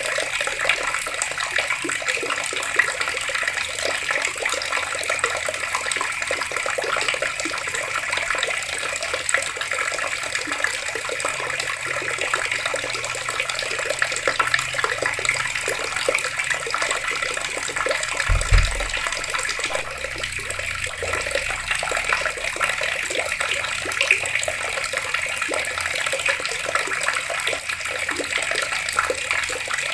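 Water running steadily from taps, splashing without a break. A single low thump about two-thirds of the way through.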